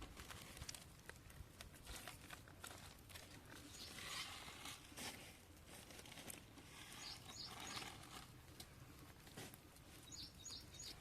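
Faint outdoor background with scattered small clicks and taps, and a few short high chirps about seven seconds in and again near the end.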